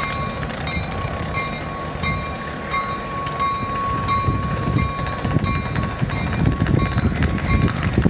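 Vintage wooden passenger coaches rolling slowly past on the rails, their trucks giving a steady low rumble and clatter. A steady high squeal runs over it, with shorter higher squeals coming and going about every half second.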